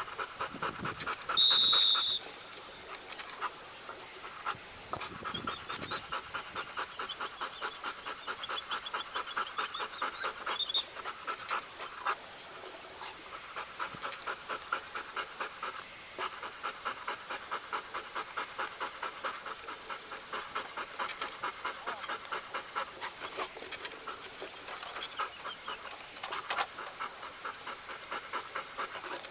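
A hunting retriever panting hard and steadily, about three pants a second. About a second and a half in, a short, loud, high-pitched tone cuts in over it.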